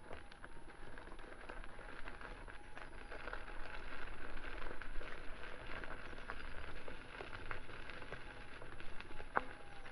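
Electric unicycle rolling along a rough outdoor path, its tyre crackling and crunching over the surface in a dense run of small clicks, with a faint steady whine underneath.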